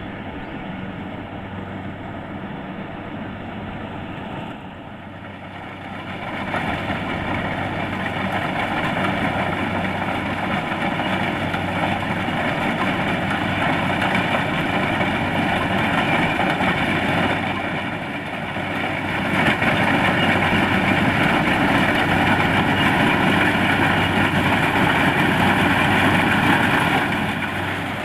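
Kubota DC-70 Plus combine harvester's diesel engine and machinery running steadily. It gets louder about six seconds in, dips briefly a little past halfway, then comes back louder.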